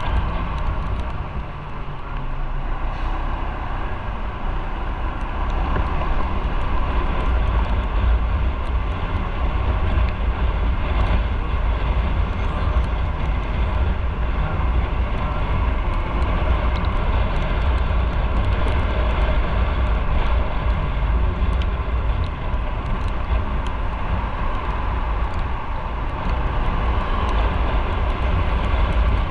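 Motorcycle riding on the road, engine running steadily under heavy wind rush and low buffeting on the microphone.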